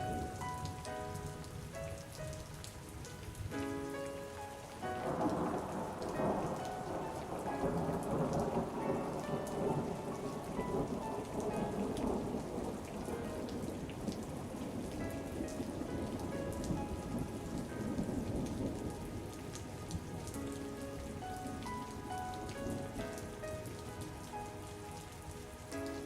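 Steady rainfall with a long rolling rumble of thunder that swells about five seconds in and dies away over the next fifteen seconds. Soft melodic music with held notes plays under the rain at the start and again near the end.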